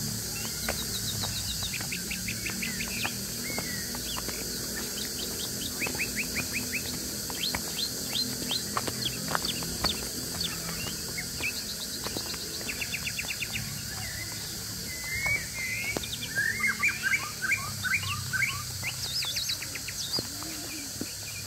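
Birds chirping, with many short sweeping notes and quick trills and a busier, louder flurry of chirps about three quarters of the way through, over a low steady rumble.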